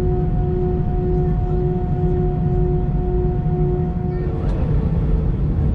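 Airbus A319 cabin noise while taxiing: the steady low rumble of the CFM56 engines at idle. Over it a humming tone pulses about twice a second, then changes to a different steady tone about four seconds in.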